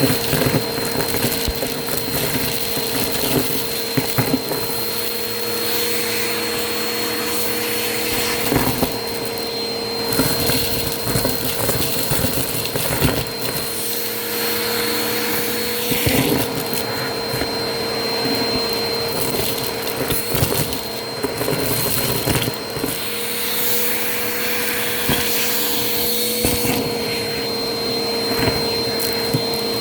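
Vacuum cleaner running steadily with a constant motor whine, crackling and clicking as crunchy debris is sucked up.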